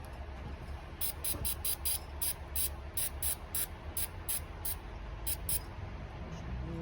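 Aerosol carb and choke cleaner sprayed in short squirts onto a dirt bike's carburetor to clean the jets: a rapid string of brief hisses, about three to four a second, starting about a second in and stopping shortly before the end.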